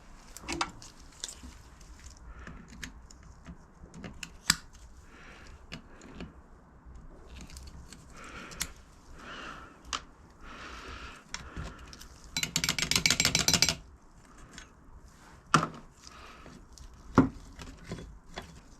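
Metal parts and hand tools clinking and knocking, with stretches of scraping, as parts of a hydraulic jack are handled and cleaned of rust. A loud rapid rattle runs for just over a second about two-thirds of the way through.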